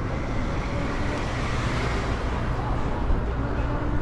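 Steady street traffic and road noise heard while riding a scooter: a continuous low rumble under a rushing hiss, with a faint brief hum twice.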